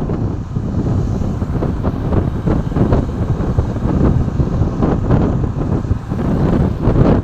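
Wind buffeting the microphone in irregular gusts over a steady low rumble of vehicle and road noise.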